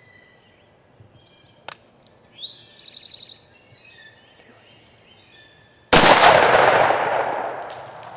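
Songbirds chirping, then about six seconds in a single loud shotgun blast that echoes and fades over about two seconds: a turkey hunter's shot at a gobbler.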